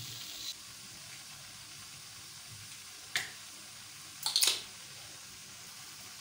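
Chicken pieces in soy sauce sizzling faintly and steadily in a nonstick wok, with a sharp click about three seconds in and a short clatter about four and a half seconds in.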